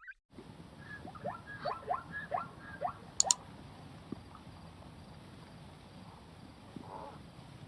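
A small animal giving a quick run of about six short rising squeaks, ending in a sharp double click, over a steady hiss.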